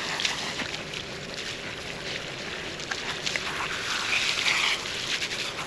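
Rinse water splashing and trickling over a dog's soapy coat as the soap is washed out.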